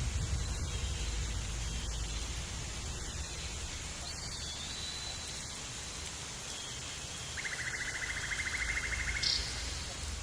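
Steady outdoor hiss with a low rumble, with several short bird calls over it and a rapid buzzy trill lasting about two seconds near the end, followed by a brief higher note.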